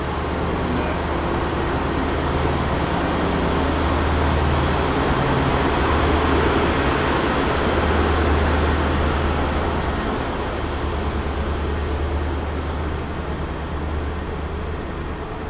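InterCity 125 High Speed Train pulling out of the station: the diesel power car's engine drone and the rumble of the coaches' wheels on the rails. The sound swells, then fades as the train moves off.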